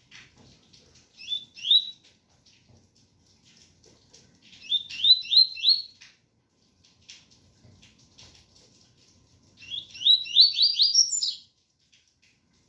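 Double-collared seedeater (coleiro) singing the 'tui-tui' song, three short phrases of quick rising whistled notes, the last phrase the longest. A faint patter of rain runs under it.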